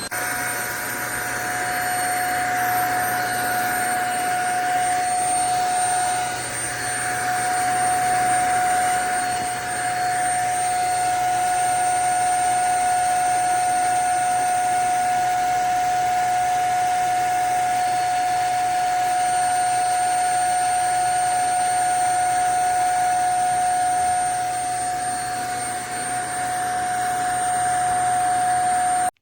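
JPHYLL Ultra-UVC-K16 corded mattress vacuum cleaner running with a steady high motor whine. Its rush of air swells and eases a few times in the first ten seconds and again near the end. It cuts off suddenly at the end.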